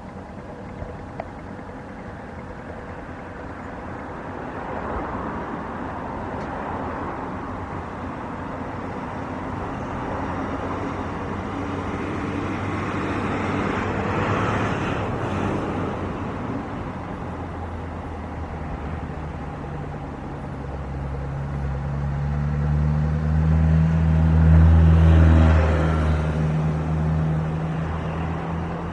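Jet airliner passing close, its engine roar building slowly to a peak about two-thirds of the way in, with a strong low hum, then starting to fade.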